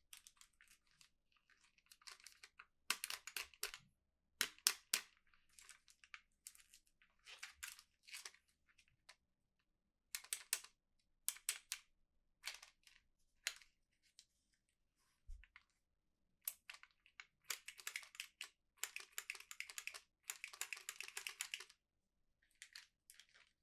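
Plastic toy packaging being handled, crinkling and tearing in short, faint bursts that come in clusters, thickest in a run of rapid crackles near the end.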